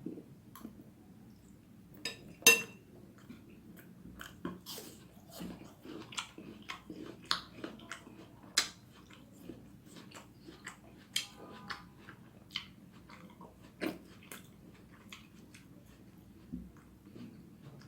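A person chewing a mouthful of spicy vegetable noodles close to the microphone: irregular short clicks and mouth sounds, the sharpest a click about two and a half seconds in.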